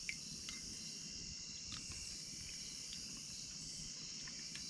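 Steady high-pitched chorus of crickets, with a few faint clicks scattered through it.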